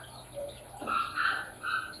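Water gurgling and bubbling in a few short gulps as a Panasonic washing machine fills.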